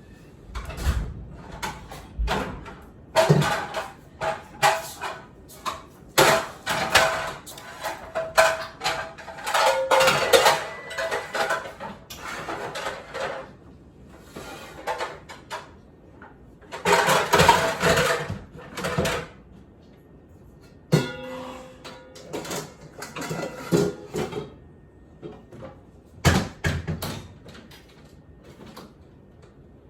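Dishes, glassware and utensils clattering and clinking as they are put away, in busy spells of knocks with brief ringing, broken by quieter gaps.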